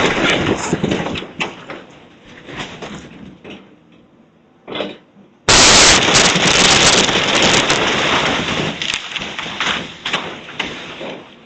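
Demolition debris crashing and clattering as a house is torn down, dying away over the first few seconds; a second loud crash starts abruptly about five and a half seconds in and tapers off.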